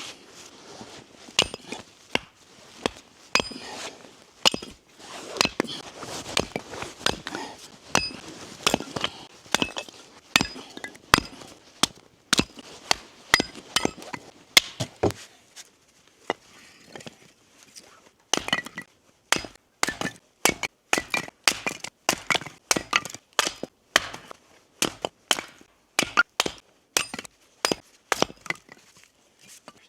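Firewood being chopped and split with an axe: a long run of sharp strikes of the blade into wood, about one to two a second, with a short pause about halfway and quicker, denser strikes after it.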